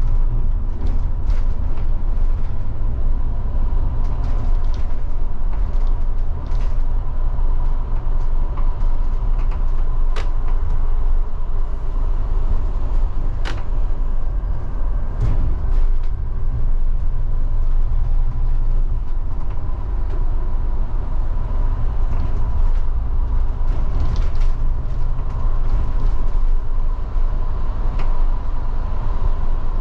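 Scania K250IB bus on the move, heard from the driver's position: a steady low engine and road rumble with a faint steady whine, and scattered clicks and creaks from the body and fittings.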